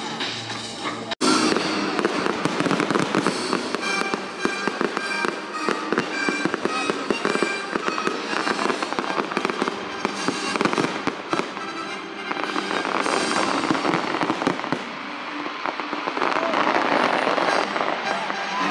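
Fireworks display: a dense run of crackling and banging fireworks, with music playing and voices mixed in. The sound cuts out for a moment just over a second in.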